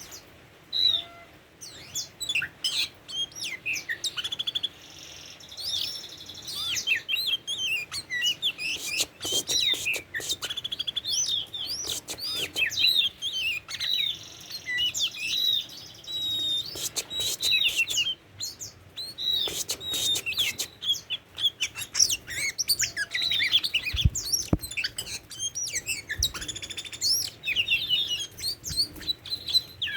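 Oriental magpie-robin (kacer) singing a long, varied song of rapid whistles and chirps that sweep up and down in pitch, with short pauses between phrases.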